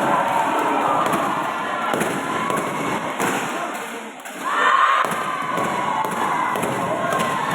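Spectators cheering and shouting at a sepak takraw match, with several sharp thuds of the ball being kicked. The crowd dips briefly about four seconds in, then a loud cheer swells up.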